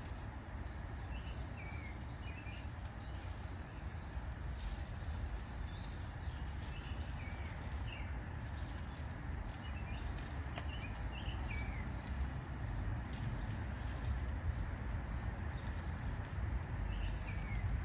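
Steady outdoor background rumble and hiss with small birds chirping now and then, about eight short chirps scattered through.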